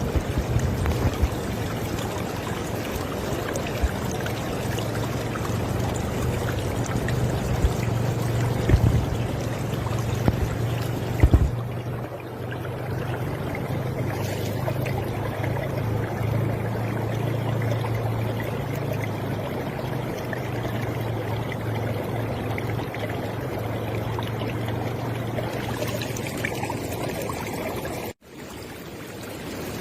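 River water flowing and rushing steadily, with a few sharper splashes in the first half. A brief sudden dropout comes near the end, where the recording cuts and resumes.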